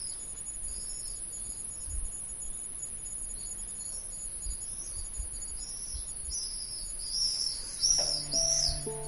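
Evening nature ambience: a steady high cricket trill with birds chirping over it in short repeated calls, the chirps growing louder toward the end. Soft sustained synth chords come in about eight seconds in.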